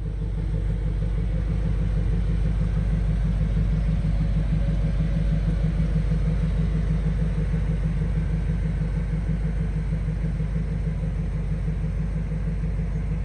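The engine of a 1980 GMC one-ton stake truck running steadily at a low, even speed with a deep rumble.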